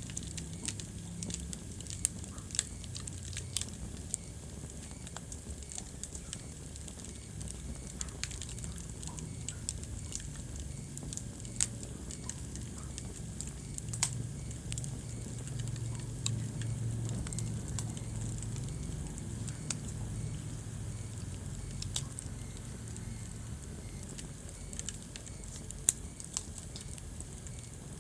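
Wood fire burning in a fireplace, with irregular sharp crackles and pops over a low, steady rumble of the flames.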